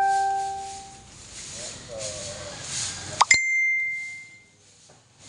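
Two bell-like dings. A lower one at the very start rings out for about a second. A sharper, higher one a little over three seconds in rings for about a second before the sound drops away.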